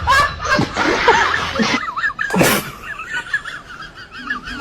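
A person laughing in short high giggles. About halfway through comes a sudden short noisy burst, then a fast, warbling high-pitched sound.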